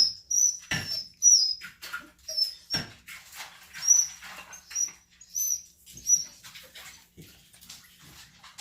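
Dog whimpering with short, high-pitched whines repeated about ten times, mixed with clicks and knocks of dry food in the bowl. The dog is kept from his bowl of food.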